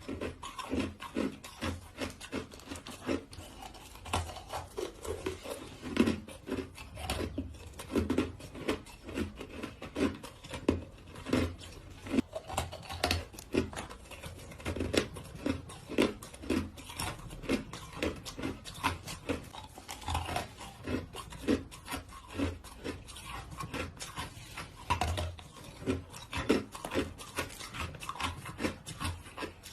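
Close-miked crunching of small, hard ice cubes being bitten and chewed, in a steady run of sharp crunches, about one to two a second.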